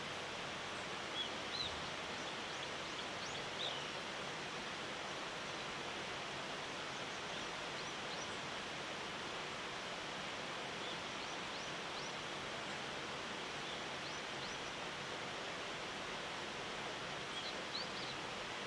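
Steady outdoor noise bed, with a few short, high bird chirps over it: a couple about a second in, one a little later, and two more near the end.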